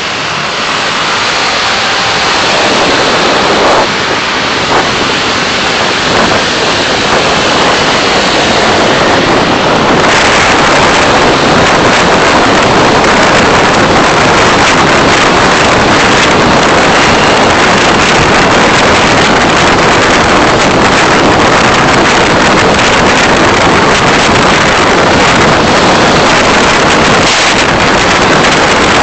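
Noise of a car driving, a steady rush of wind and road noise on the recorder's microphone that builds over the first ten seconds or so as the car gets under way, then holds loud and even.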